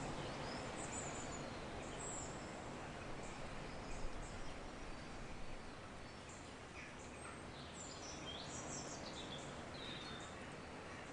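Nature-sounds ambience: a steady background hiss with scattered short, high bird chirps, busier in the second half.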